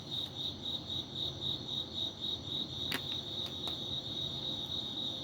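Cricket chirping steadily in a fast, even pulse of about five chirps a second.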